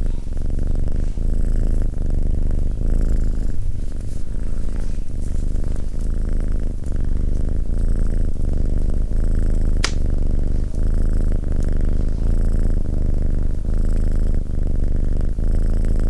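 Domestic cat purring close up, the purr swelling and easing with each breath about once a second. One sharp pop about ten seconds in, such as a burning log in a fireplace gives.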